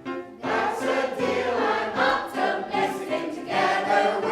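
A group of voices singing together, a choir of mixed voices, starting about half a second in.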